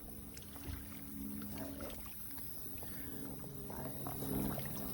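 Faint, steady low hum of a motor, a little stronger after about three seconds, with scattered small clicks and knocks.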